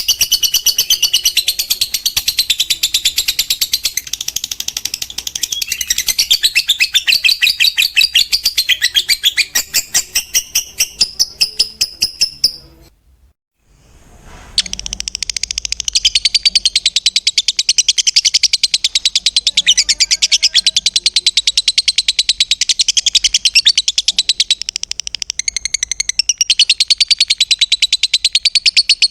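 Lovebird ngekek: a long, fast run of shrill chattering notes, broken by a second or two of quiet about thirteen seconds in, then starting again.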